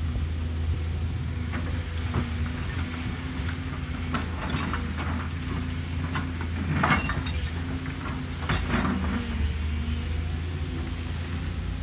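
Caterpillar excavator's diesel engine running steadily, with short bursts of scraping and clatter about four, seven and nine seconds in.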